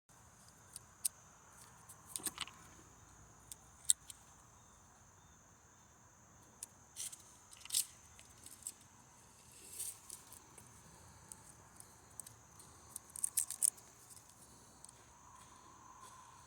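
Faint, scattered clicks and small metallic clatters of a hand crimping tool and wire ends being worked, with a few quick runs of clicks. A steady high chirring of crickets runs underneath.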